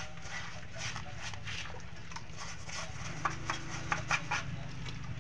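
Brush scrubbing caked brake dust off drum brake parts with soapy water, with a few sharp clicks and taps about three to four and a half seconds in.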